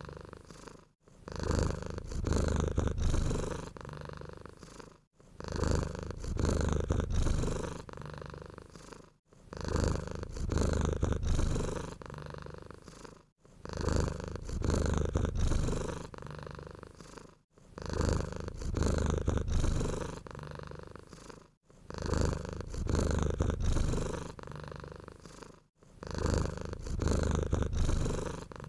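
Domestic cat purring steadily, swelling and fading with each breath in a cycle that repeats about every four seconds, with a brief gap between cycles.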